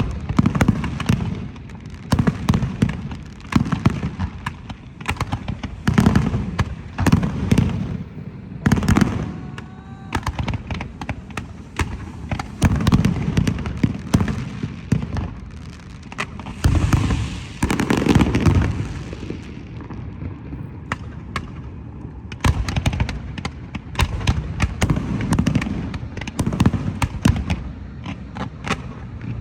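Fireworks display: firework shells bursting in rapid, overlapping succession, deep booms mixed with dense crackling, with a thin whistle about nine seconds in.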